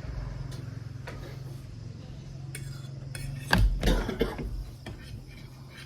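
Cutlery and dishes clinking and clattering, loudest in a short cluster of knocks about three and a half seconds in, over a steady low hum.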